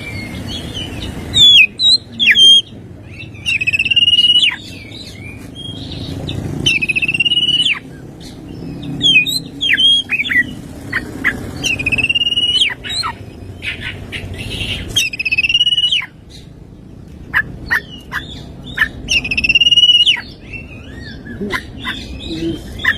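Oriental magpie-robin (kacer) singing loudly. It repeats buzzy trilled phrases of about a second each, several times over, between sharp downward-sweeping whistle notes.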